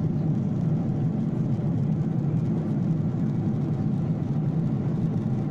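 Airliner cabin noise in flight: a steady hum of engines and rushing air, heaviest in the low range, with no change throughout.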